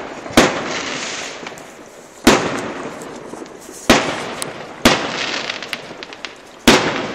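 Fireworks exploding: five sharp bangs at uneven intervals, each trailing off in a fading echo, with a few faint crackles in between.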